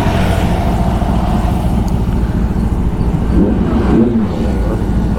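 Motorcycle engines running, a steady rumble with some rising and falling revs in the second half.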